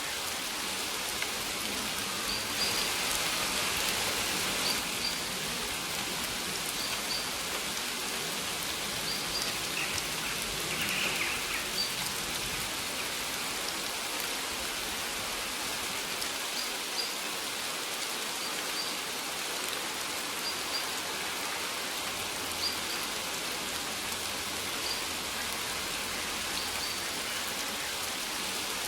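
Steady rain falling, with faint short, high bird chirps every second or two.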